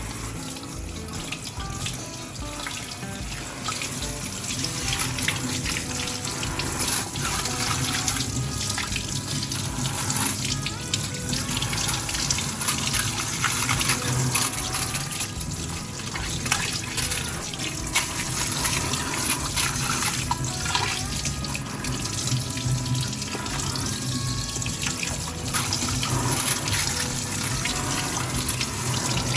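Tap water running into a sink while a just-scrubbed steamer is rinsed under it, with frequent short knocks and clatters as it is handled.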